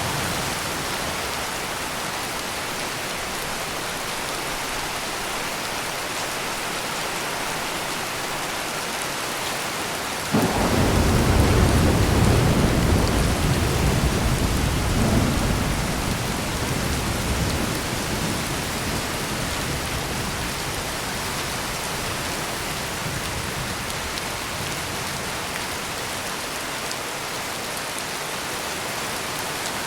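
Steady heavy rain, with a clap of thunder about a third of the way in that starts suddenly and rolls off over several seconds.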